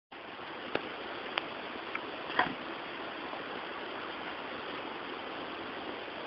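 Steady rushing noise, like wind on the microphone or running water, with four short sharp clicks in the first half, the loudest about two and a half seconds in.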